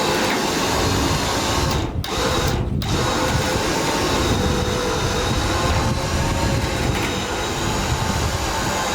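An engine running steadily, a continuous mechanical drone with a faint steady whine over it.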